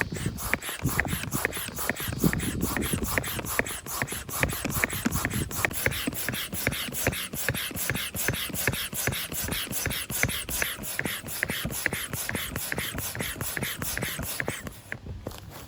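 Rapid, regular mechanical clicking, about four to five clicks a second, that stops near the end.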